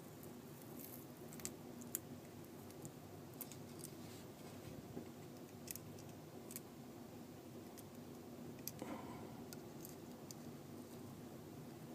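Small tools clicking and tapping against the parts of an iPhone 4S being taken apart: sparse, faint sharp clicks over a low steady hum, with a brief scrape about nine seconds in.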